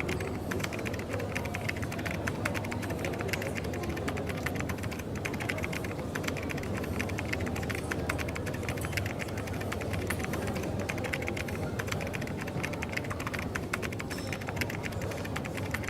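Rapid, continuous typing on a computer keyboard over a coffee shop's steady low hum and busy background.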